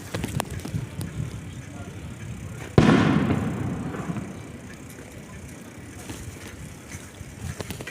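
A single loud firework bang about three seconds in, its echo fading over a second or two, with scattered smaller pops and clicks around it.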